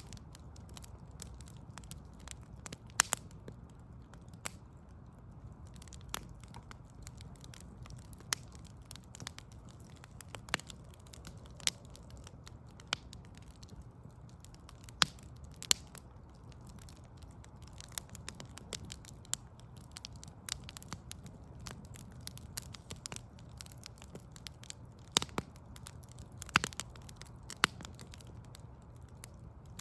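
Wood fire crackling, with irregular sharp pops and a few louder snaps scattered through, over a steady low rumble.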